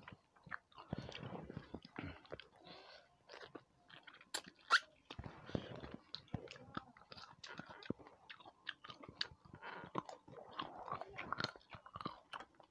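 Close-miked chewing and wet mouth sounds of a person eating rice and fish curry by hand, with irregular sharp clicks. One click about a third of the way in is clearly louder than the rest.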